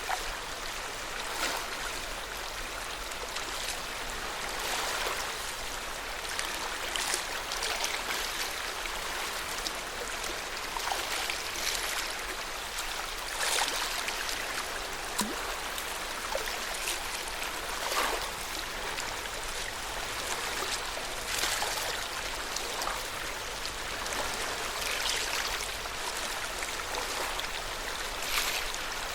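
Small waves on Lake Yamanaka lapping at the shore: a steady wash of water broken by soft irregular splashes every second or two.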